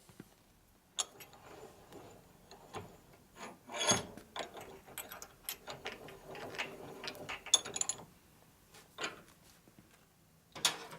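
Irregular small metal clicks, taps and scrapes of brake fittings and hand tools being handled, with a few louder knocks.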